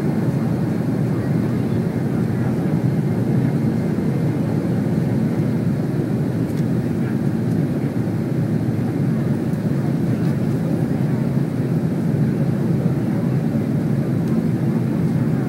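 Airliner's engines and airflow during take-off, a steady low rumble heard from inside the cabin.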